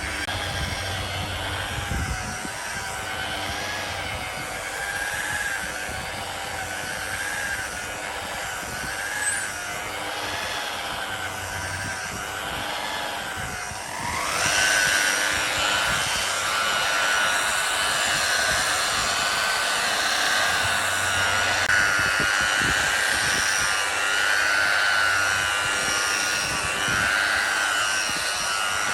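Electric power tool running with a whine that wavers up and down as it is worked under changing load. About halfway through the motor winds up to a higher speed and runs louder from then on.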